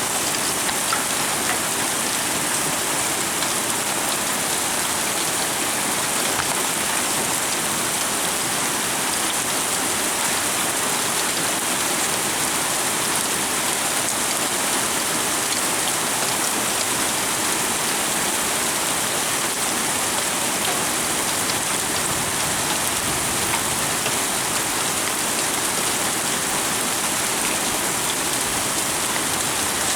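Heavy rain pouring down steadily in a thunderstorm, an even hiss of drops on surfaces with no thunder claps standing out.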